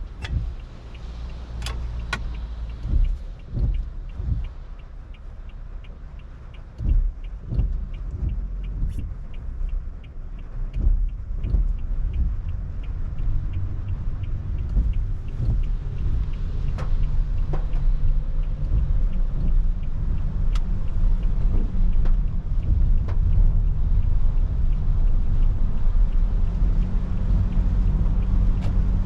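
A car driving in rain, heard from inside: a low road and engine rumble that builds about ten seconds in and then holds steady, with a slowly rising engine tone as the car picks up speed. The first part carries a fast, even ticking and a few low thumps.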